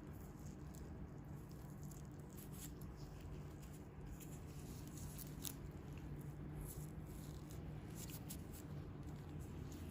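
Faint close-up handling sounds of hands working on feet: scattered soft crackles and ticks over a low steady hum.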